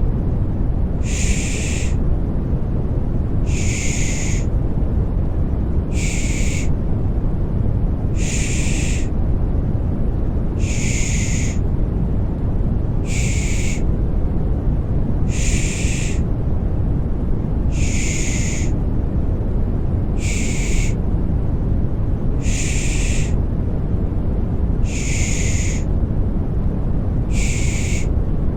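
Rhythmic 'shh' shushing for settling a baby: a soft hiss about a second long, repeated every two and a half seconds or so, over a steady deep white-noise rumble.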